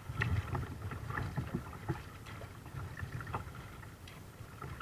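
Water splashing and lapping around a sea kayak, with irregular short splashes from paddling over a low steady rumble.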